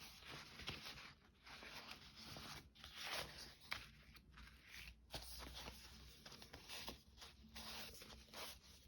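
Faint rustling and shuffling of paper sheets being handled and sorted, with a few soft taps and slides as pages are laid down.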